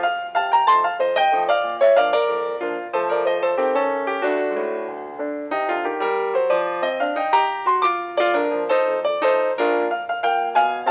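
Background piano music: a quick, bright melody of struck notes, easing into a few held notes about four seconds in before picking up again.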